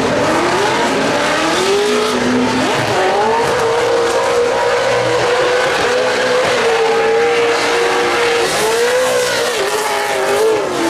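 Drift car engine revving at high rpm, the pitch rising and dipping and held fairly steady through the middle, with tyres screeching as the car slides.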